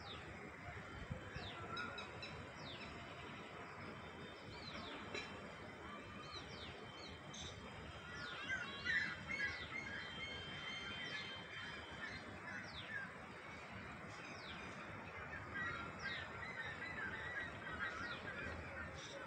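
Several wild birds calling: repeated short, high, sliding notes throughout, joined about eight seconds in by louder chattering calls, over a steady outdoor background hiss.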